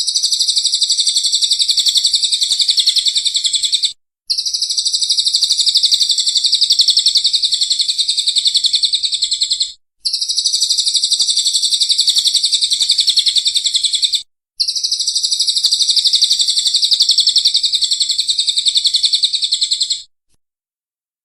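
A songbird's rapid, high-pitched trill of fast repeated notes in four long bouts of about five seconds each. The bouts are separated by brief, abrupt gaps, as in an edited looped bird-song recording, and the trill stops about a second before the end.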